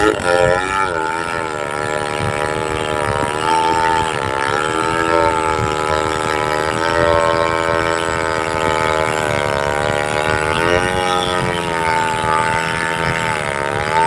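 Two-stroke chainsaw running at high revs while cutting into a tree trunk, a steady engine drone whose pitch dips briefly twice.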